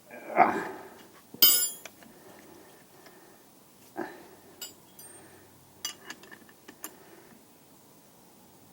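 Metal hand tools clinking and knocking on a brake caliper while its piston is wound back with a wind-back tool and spanner. There are two loud strikes in the first two seconds, the second a bright ringing clink, then a knock and a run of lighter ticks and clicks.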